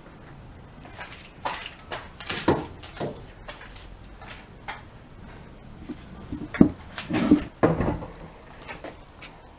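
A 17mm socket and wrench being worked on an engine oil sump drain bolt to loosen it: scattered metallic clicks and knocks, with a few louder clunks between about six and eight seconds in.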